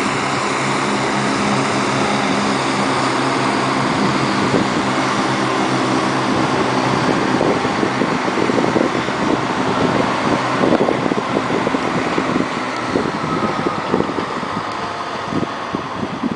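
Diesel train engine running with a steady drone. A rough, rapid rattling builds from about seven seconds in.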